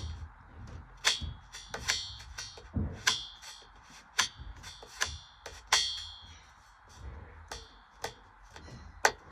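Bridgestone Altus Newing washing machine washing a small load of whites: irregular sharp clinks that ring briefly, about one or two a second, over a low steady hum.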